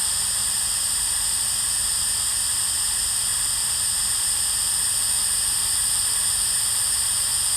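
Steady, unbroken static hiss at a constant level, with a faint low hum underneath.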